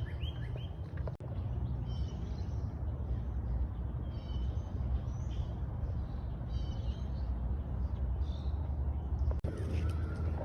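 Birds chirping in short repeated phrases over a steady low rumble.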